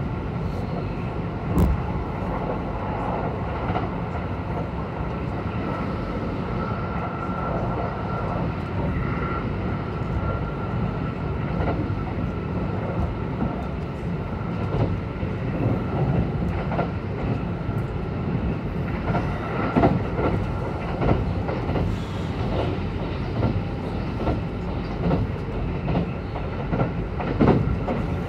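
Kintetsu 22000 series electric train running at speed, heard from inside the passenger cabin: a steady rumble of wheels on rail with a steady high whine, and wheels clacking over rail joints, more often in the second half.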